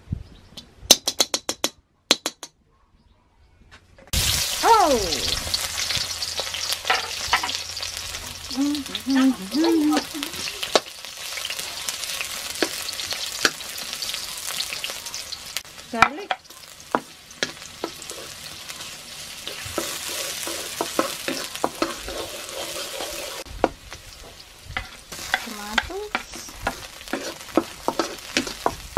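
Sliced red onions frying in hot oil in a steel wok, with a sizzle that starts suddenly about four seconds in and carries on steadily. A wooden spatula stirs and scrapes against the pan, making frequent small clicks.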